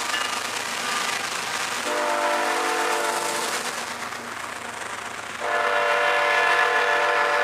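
CSX freight train rolling past, its steel wheels rumbling over the rails as a boxcar and tank cars go by. A multi-note locomotive air horn sounds twice: a blast of about two seconds starting about two seconds in, and a louder one starting about five and a half seconds in and still sounding at the end.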